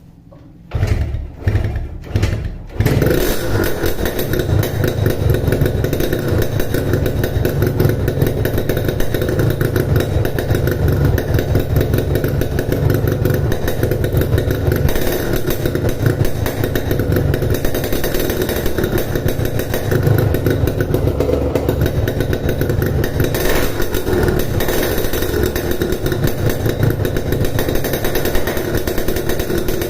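Yamaha RX-King 135cc two-stroke motorcycle engine breathing through a Boban C33 aftermarket exhaust fitted with an Altech C17 silencer insert. It fires in a few short bursts about a second in, catches near the three-second mark, then runs steadily at idle.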